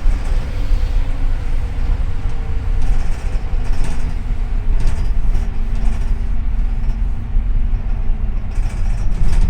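Double-decker city bus on the move, heard from inside: a deep, steady engine rumble with road noise and a faint whine.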